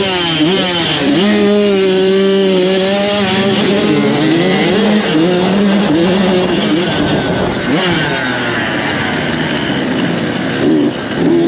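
Motocross dirt bike engines racing, revving up and down through the gears. After a couple of seconds of one engine holding a steady pitch, several bikes are heard at once.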